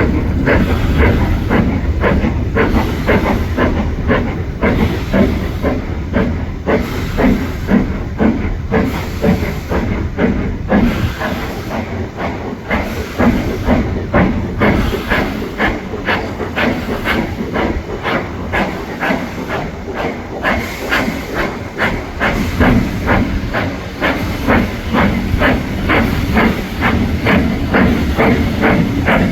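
Steam locomotive working, its exhaust beating in a steady rhythm of a few beats a second.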